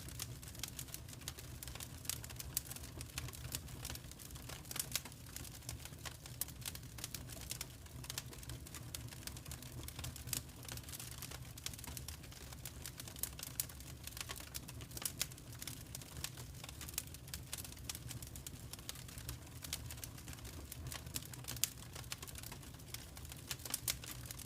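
Fireplace fire crackling, with many irregular sharp snaps over a steady low rumble.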